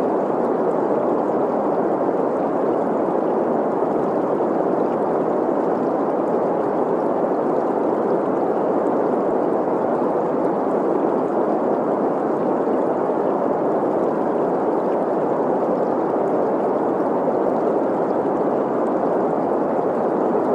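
Steady green noise, an even hiss centred in the middle of the range, blended with the sound of a running stream.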